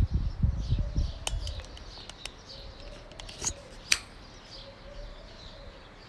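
Birds chirping faintly and continuously, with a few sharp clicks between about one and four seconds in. Low rumbling on the microphone in the first second.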